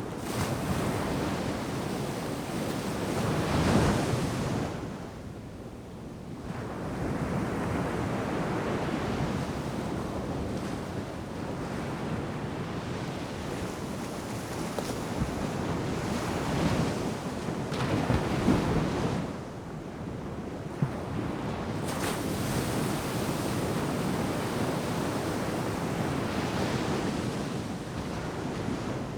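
Ocean surf breaking on a beach, a continuous wash of water that swells and recedes, with peaks about four seconds in and again near the middle. Wind buffets the microphone at times.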